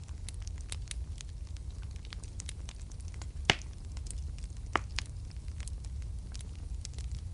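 Wood fire crackling in a fireplace: scattered small snaps over a low, steady rumble of the flames, with one sharp, loud pop about halfway through and a smaller one a second later.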